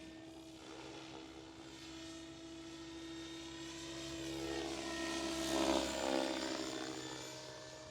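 Electric 700-size RC helicopter (SAB Goblin Kraken 700) in flight: a steady motor and rotor whine. It grows louder as the helicopter passes close, about five to six seconds in, then fades again.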